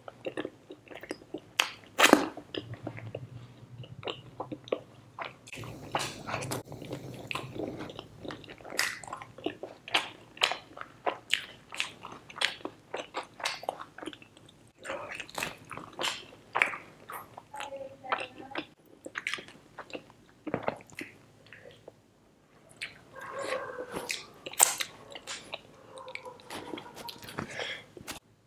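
Close-miked chewing of butter naan dipped in butter chicken gravy: a dense, uneven run of mouth clicks and smacks.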